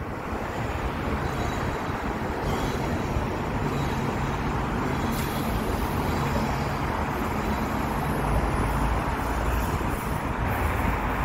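A train running past on the tracks: a steady rumble with a low hum, and a deeper rumble swelling about eight seconds in before easing near the end.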